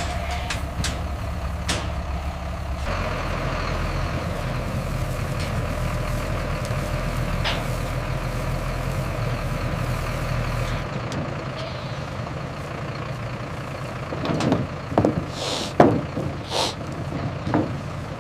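A truck engine idling steadily, with several short knocks and hisses near the end.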